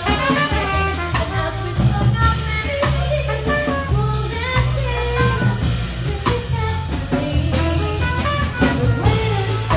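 Small jazz band playing: double bass holding low notes that step from one to the next under a drum kit, with a moving melody line over them.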